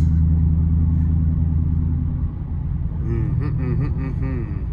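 Dodge Challenger R/T's 5.7-litre Hemi V8 idling through a straight-pipe exhaust with resonator and mid-muffler deleted, a steady deep rumble while the engine is still warming up. The rumble eases slightly about two seconds in.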